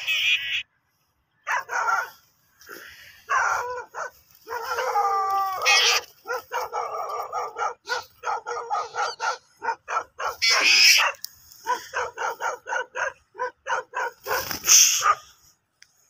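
Black birds fighting, giving harsh calls in rapid runs of short notes, with two louder, rasping cries, one past the middle and one near the end.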